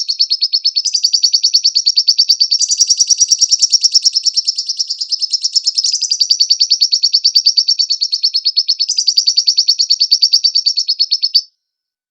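Lovebird singing a long, unbroken chattering song of rapid high notes. The song steps up or down in pitch a few times and breaks off suddenly near the end.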